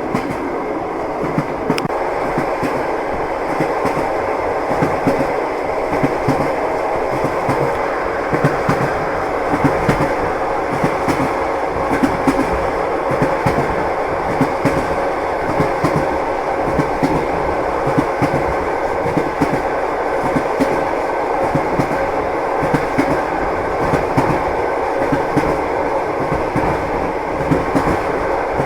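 Train wheels clattering over rail joints while the train runs steadily: a continuous rumble with frequent short knocks.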